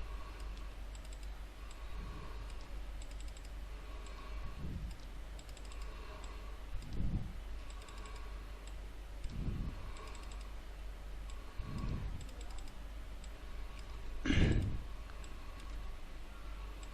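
Computer keyboard typing and mouse clicks over a steady low hum, with soft low thuds every couple of seconds and a louder one near the end.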